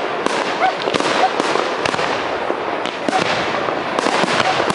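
Aerial fireworks display: a dense, continuous crackle of many shells and stars going off, with sharp bangs several times a second.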